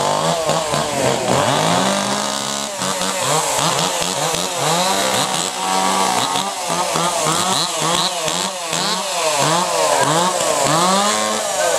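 Small two-stroke chainsaws running hard at high revs, their pitch swooping up and down over and over, about once a second, as they are loaded and unloaded in the cut.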